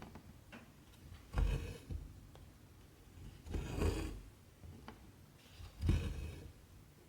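Cotton embroidery thread pulled through 14-count cross-stitch fabric with a needle, three rasping pulls about two seconds apart, with a faint tick or two of the needle between them.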